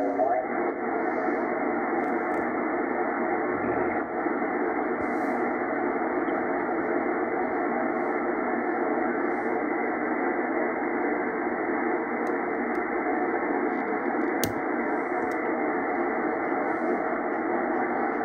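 Yaesu FT102 transceiver's speaker hissing steadily with receiver static, cut off above the upper voice range by the set's filter. A single click about fourteen and a half seconds in.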